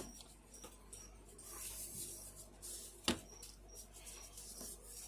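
Cloth wiping down a part of a plastic box fan: soft rubbing, with a sharp click about three seconds in.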